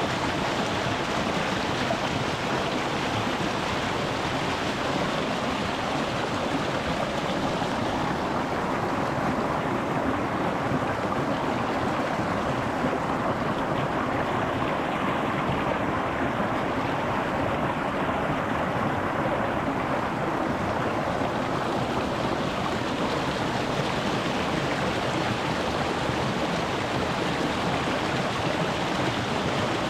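Small rocky mountain stream flowing over stones: a steady, even rush of water. Its higher hiss softens for a while in the middle, then brightens again.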